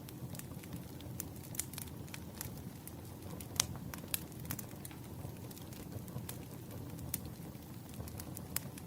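Campfire crackling: a steady low rumble of burning wood with scattered sharp pops and snaps, the loudest pop about three and a half seconds in.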